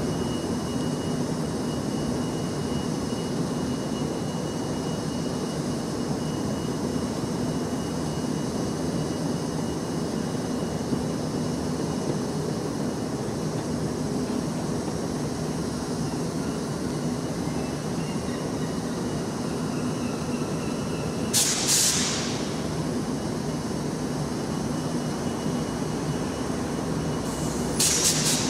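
Trains at a station platform: a steady low rumble of train engines running, with a thin high steady tone above it. Two short, loud bursts of hiss come through, one about two-thirds of the way in and another just before the end.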